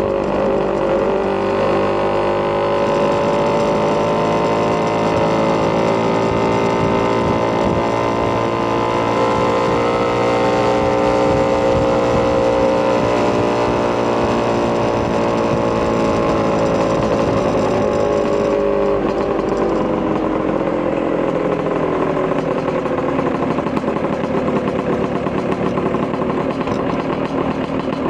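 Vespa PX200 scooter's Polini 210cc two-stroke single-cylinder engine with a Malossi expansion-chamber exhaust, heard while riding. The engine pitch climbs slowly over the first dozen seconds under steady throttle, then falls away as the rider eases off.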